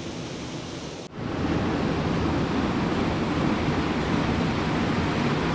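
Steady rush of falling water from a small cascade swollen by winter rain. About a second in it cuts abruptly to a louder, fuller rush that holds steady.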